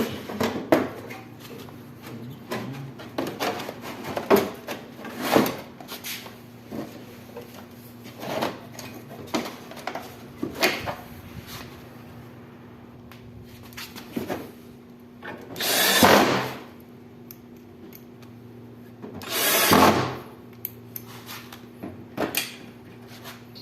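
Knocks, clatters and handling noises of metal parts as a window air conditioner's evaporator coil is fitted back into the unit, with two louder, longer noises of about a second each in the second half. A faint steady hum runs underneath.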